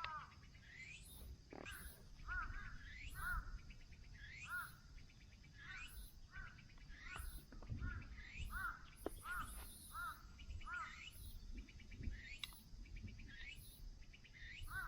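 Birds calling outdoors: a long series of short, arched call notes repeated roughly once or twice a second, with higher, shorter rising chirps between them.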